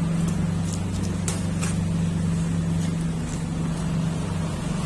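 Car engine idling steadily with a low hum, and a few light clicks in the first couple of seconds.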